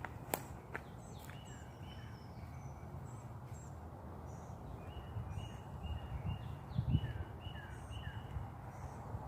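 A bird calling: a run of short, evenly repeated chirps from about five seconds in, with fainter high calls before, over a steady low rumble.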